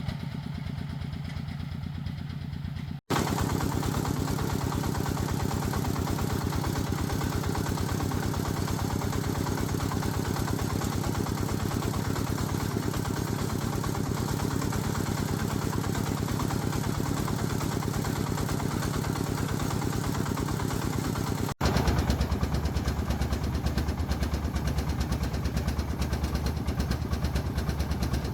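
Agricultural truck's engine running steadily. The sound cuts abruptly about three seconds in, and again about two-thirds of the way through, each time to a louder engine note; after the second cut it is deeper.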